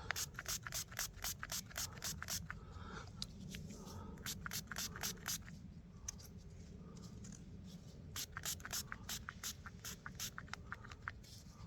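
Rapid scratchy scrubbing strokes, about four or five a second, cleaning dirt off a freshly dug metal find. They come in three spells of two or three seconds each.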